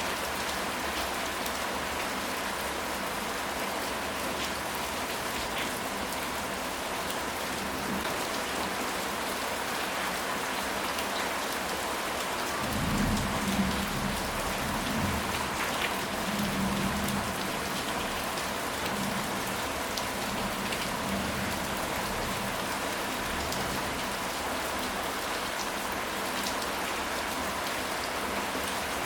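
Steady rain falling, an even hiss with scattered drop ticks. About halfway through, a low rumble of thunder rolls for several seconds, swelling a few times.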